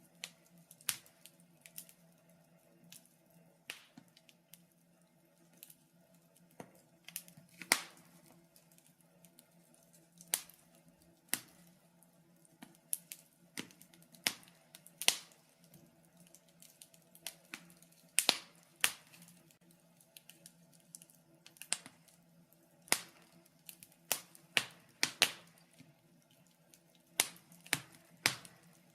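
Wood fire crackling in a fireplace: irregular sharp pops and snaps, a few every second or two and some much louder than others, over a faint steady low hum.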